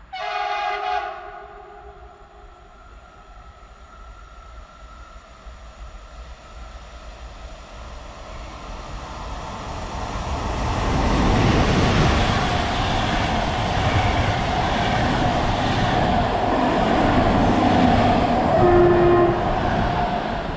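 An electric locomotive sounds its horn once, about a second long, as an intercity passenger train approaches. The train's rumble then builds, and the locomotive and its coaches pass at speed, with steady rushing wheel and rail noise.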